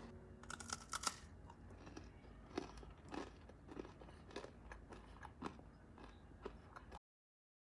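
Faint, irregular crunching and chewing of a crisp toasted coconut macaroon, a few crunches a second; it cuts off abruptly near the end.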